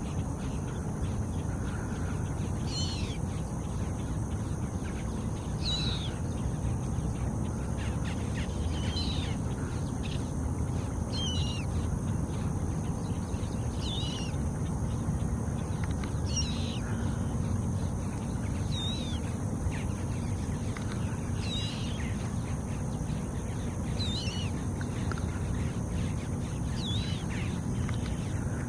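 Swamphen chick repeatedly giving a high, thin, wavering peep about every two and a half seconds, calling for its parent. A steady low rumble runs underneath.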